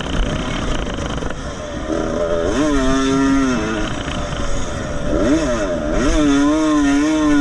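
Vintage motocross motorcycle engine revving hard, its pitch climbing and dropping several times with throttle and gear changes. Near the end it holds a steady high note.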